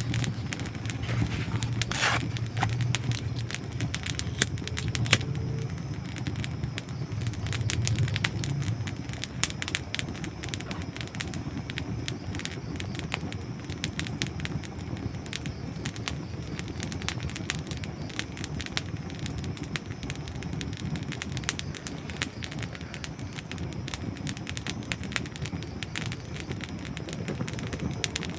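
Dry wood burning in a campfire, crackling and popping with dense, irregular snaps throughout. Under the snaps is a low rumble that eases about a third of the way in.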